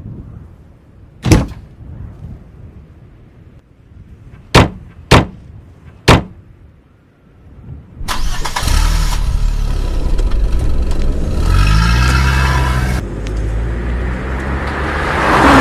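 Car doors slamming shut four times, then the car's engine starting about eight seconds in and running as the car pulls away, its pitch stepping up several times as it gathers speed.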